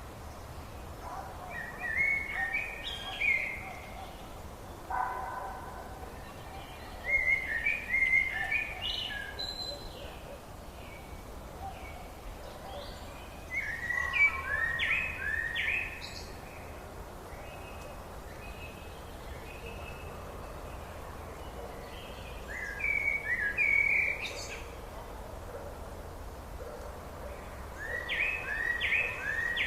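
Songbird singing a short phrase of quick stepped notes, about two seconds long, repeated five times at intervals of roughly six seconds, over a steady background hiss; another lower call sounds once about five seconds in.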